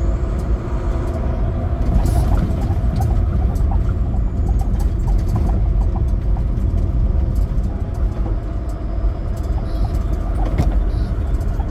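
Semi truck driving along, its diesel engine and road noise making a steady low rumble with scattered small clicks and rattles.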